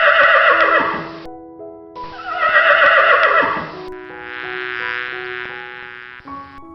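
A horse whinnying twice, loud calls that waver and fall in pitch, followed by a softer drawn-out call, over background music.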